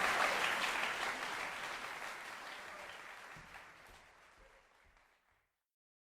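Audience applause, a dense patter of many hands clapping, fading out steadily over about five seconds into silence.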